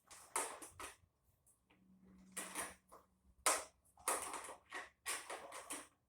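Metal tools and small engine parts clattering and scraping as a tiller is reassembled by hand: a series of short, uneven clinks and rattles.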